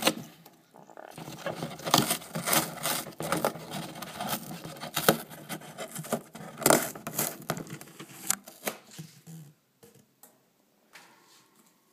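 Parrot tearing and crunching a cardboard box with its beak: a quick, irregular run of rips and crackles that dies away in the last couple of seconds.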